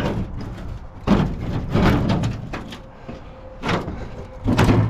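A run of metal clunks and scrapes, about five in a row with the heaviest near the end, as the old Brockway truck's battered hood is worked open.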